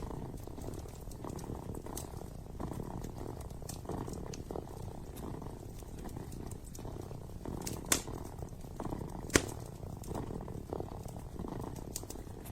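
Kitten purring steadily close up, with a wood fire crackling under it; two sharp pops stand out about eight and nine and a half seconds in.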